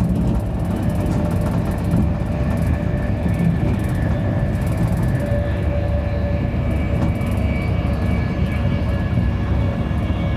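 Cabin noise inside a Virgin Trains Class 390 Pendolino electric train running at speed. The wheels on the track give a steady low rumble, with faint steady whining tones over it.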